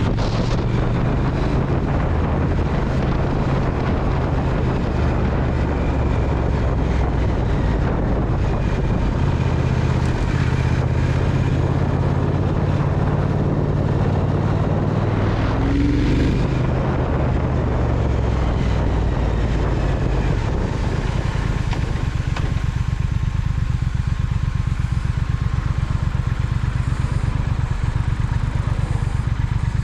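Triumph Speed Twin motorcycle's parallel-twin engine running under way, with wind noise over the engine note. About two-thirds of the way through the wind noise falls away and the engine settles into an even, low-speed beat.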